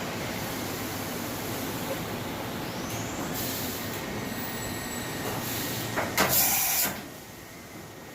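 Mori Seiki Duracenter 5 vertical machining center running an automatic tool change over a steady machine hum: a rising whine about three seconds in, then a knock and a loud hiss of air lasting under a second. After the hiss the hum drops lower.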